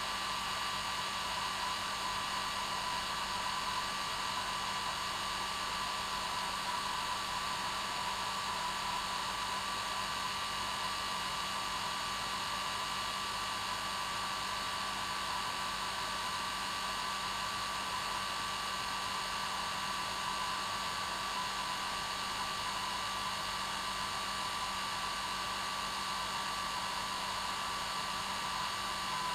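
Hair dryer running steadily on its normal setting: an even rush of air with a steady hum from the motor.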